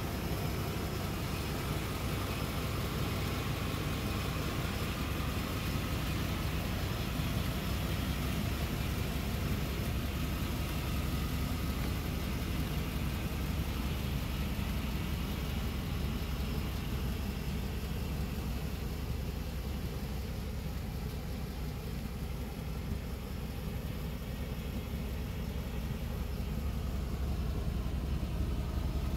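1992 Cadillac Brougham's V8 idling steadily, a low even rumble.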